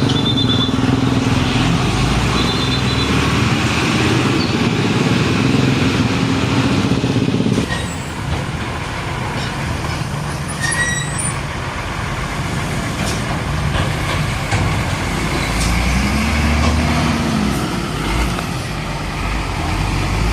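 Heavy diesel trucks passing on a busy road, with a loud, close engine rumble. About eight seconds in the sound changes abruptly to lighter, more even traffic noise. Brief high squeals come near the start and around the middle.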